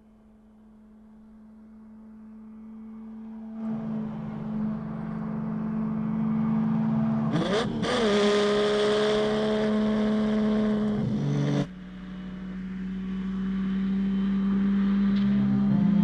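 Lamborghini Miura's V12 engine running at speed, fading up from near silence to a loud, steady engine note. Its pitch swoops briefly about halfway through, and the sound drops suddenly in loudness a few seconds later.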